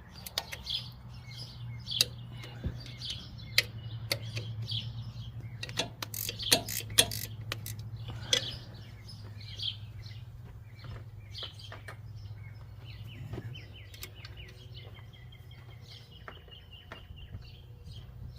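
Small birds chirping over and over, with sharp metallic clicks and clinks of a wrench working the alternator bolts on a tractor, over a steady low hum.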